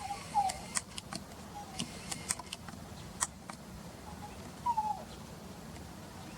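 Bird calls: scattered sharp ticks and a few short falling notes, two of them about half a second in and another near the five-second mark.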